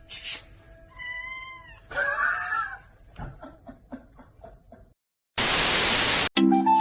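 A cat meowing twice, about a second in and again just after, the second call louder and more strained, followed by a few fainter ticks. Near the end a loud burst of hiss like TV static lasts about a second.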